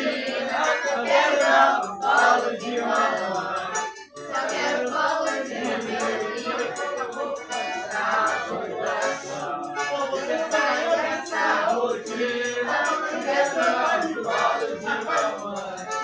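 A group of people singing together with music, a rattle keeping time, with a brief break about four seconds in.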